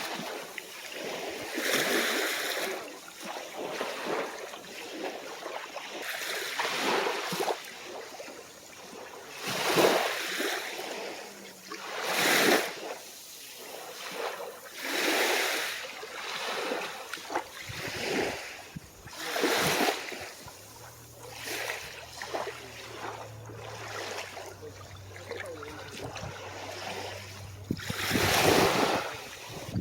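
Small calm waves breaking and washing up on a beach, one swell of surf every two to three seconds. A faint low hum joins in the second half.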